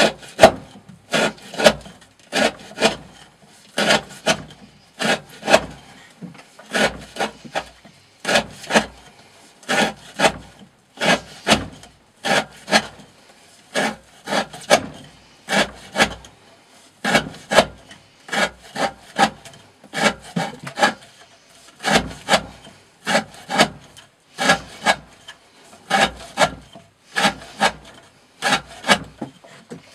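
A D2-steel knife with a 40° V edge slicing through thick 20 mm rope again and again, each cut a short rasping stroke, about one a second in a steady rhythm.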